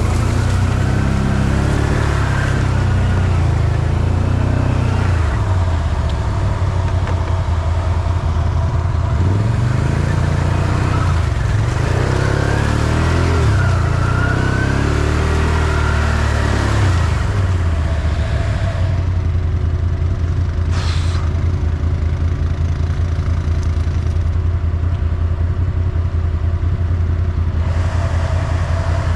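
Off-road vehicle engine running, its revs rising and falling repeatedly through the middle stretch, then settling to a steady low running note for the last stretch. A short hiss sounds once about two-thirds of the way in.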